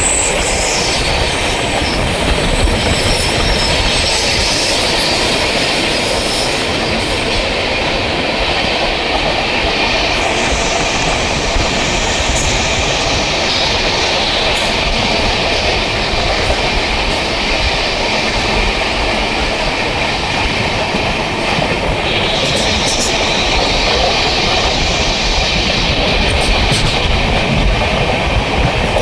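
Passenger express train running on the rails: a steady, loud noise of coach wheels on the track throughout.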